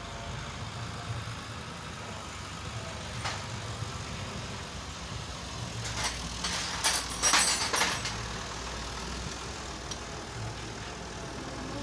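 Short metallic clicks and clinks of hand tools on the motorcycle engine as a 14 mm nut is worked on, the loudest in a cluster about six to eight seconds in. A steady low hum runs underneath.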